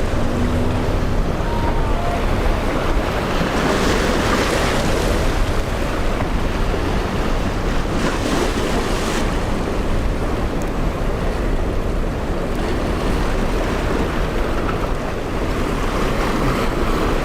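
Strong wind rumbling on the microphone over rough surf, with waves breaking and washing in surges about 4, 8 and 17 seconds in.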